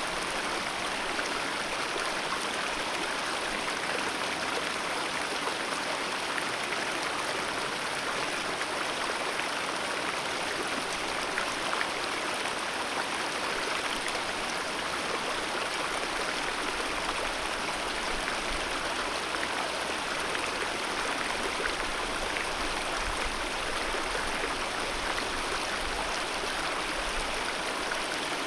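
Alpine mountain river flowing steadily: a dense, even rush of water with no let-up.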